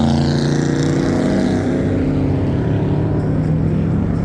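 Car engines running at low revs, a steady low rumble whose pitch eases slightly down over the first couple of seconds.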